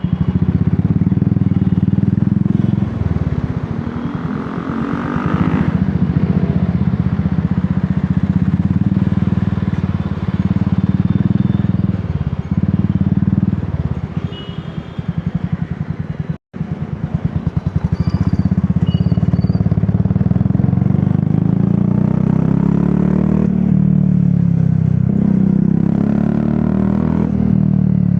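Royal Enfield Classic 350's single-cylinder engine running through an aftermarket Dolphin exhaust while riding, the throttle easing off and opening up again several times, rising in pitch as it accelerates. The sound cuts out briefly just past halfway.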